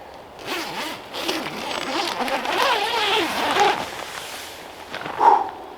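A zipper being pulled, a drawn-out rasp lasting about four seconds, followed by a short sharper sound near the end.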